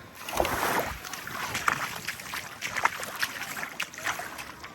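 A small wave breaking on the beach and washing up the sand, its foam crackling and fizzing. The wash is loudest in the first second.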